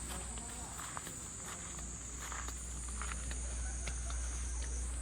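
A chorus of cicadas droning steadily at a high pitch, with light footsteps and a low steady rumble beneath.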